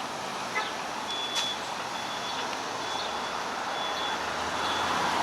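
A truck's reversing alarm beeping about once a second, a steady high tone, over street traffic noise. A low engine rumble comes in about three seconds in.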